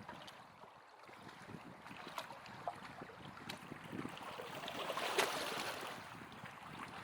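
Small waves lapping and splashing at the water's edge of a lough, with wind on the microphone; the sound swells louder for about a second about five seconds in.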